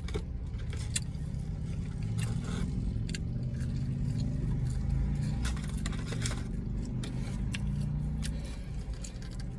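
Steady low rumble of a car idling, heard from inside the cabin, with scattered light clicks and rustles of food and its paper wrapper being handled.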